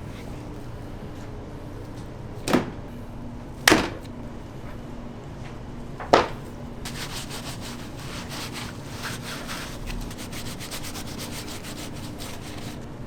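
Kitchen food preparation: three sharp knocks, then several seconds of quick, repeated rubbing and scraping strokes.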